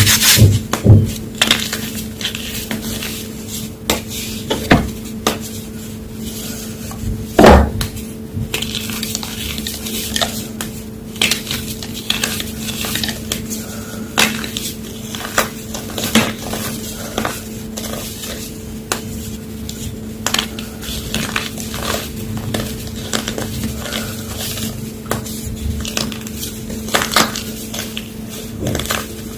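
A homemade gym chalk block being crushed, with irregular crunchy crackles and snaps throughout and one louder crack about seven seconds in, over a faint steady hum.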